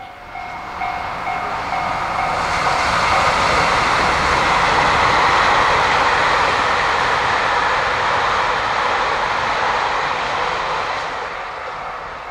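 A train passing close by on the line: the rumble and rail noise build over about five seconds, stay loud, then fade away near the end.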